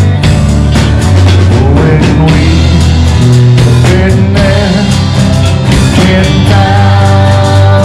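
Live worship band playing a loud rock-style arrangement with electric guitar, bass and drums keeping a steady beat.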